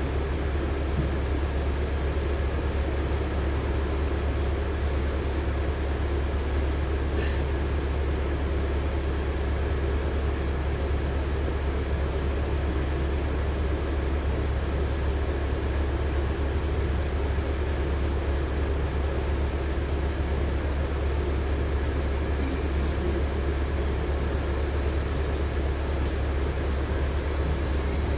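Interior of a LiAZ-6213.65 articulated city bus on the move: steady engine and road drone, a strong low hum under an even rushing noise, with no change in pace.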